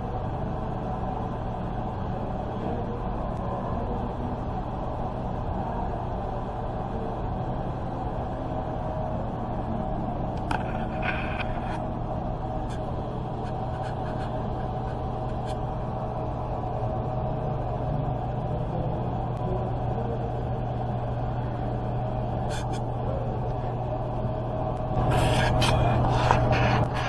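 A steady low mechanical hum with a constant higher tone over it, a few faint clicks about ten seconds in, and a louder noisy burst lasting about two seconds near the end.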